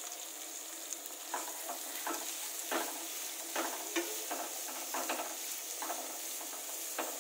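Grated carrot frying and sizzling in hot oil in a nonstick kadai, a steady hiss. From about a second in, a spatula stirs it round the pan in irregular scraping strokes.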